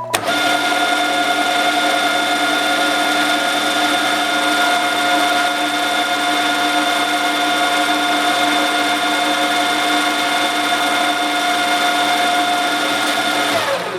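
A Deckel FP3L universal milling machine's spindle drive running steadily with a gear whine made of several steady tones. It is switched off near the end and the tones fall away as it winds down.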